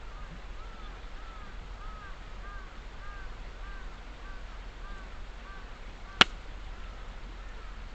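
A campfire's burning wood gives one sharp pop about six seconds in, over a steady hiss. Before it, an animal call chirps in short arched notes about twice a second, fading out shortly before the pop.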